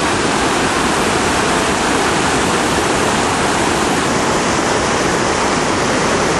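Loud, steady rush of flash-flood water running over the ground.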